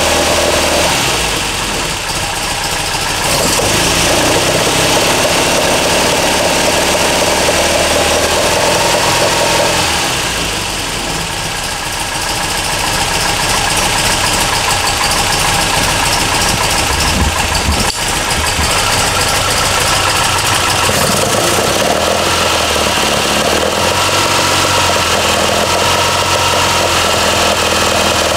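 MGB's 1.8-litre B-series four-cylinder engine idling steadily on its first run after an oil and filter change. It is loud enough to drown out speech, with a couple of brief dips in level.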